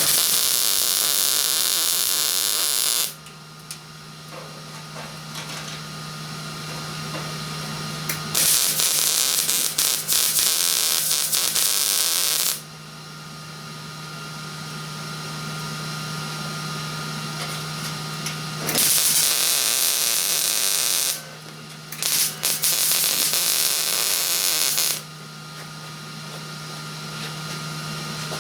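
Electric arc welder laying short welds on sheet steel: four bursts of sizzling crackle, each a few seconds long, with a steady low hum in the pauses between them.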